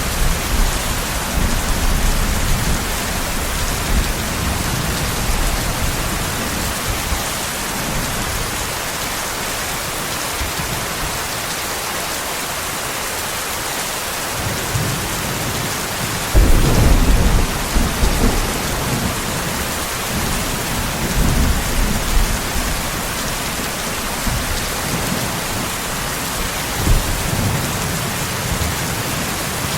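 Steady heavy rain hissing, with rumbles of thunder coming and going underneath. The rumble fades in the first few seconds, and a louder roll of thunder breaks in sharply about 16 seconds in, with smaller rumbles after it.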